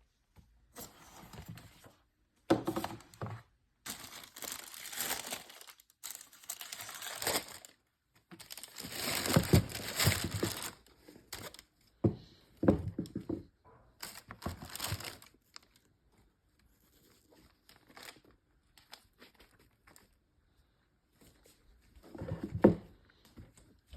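New packaging paper crinkling and rustling as it is handled and pulled open, in irregular bursts: busy through the first half, then sparse faint rustles, and one loud burst near the end.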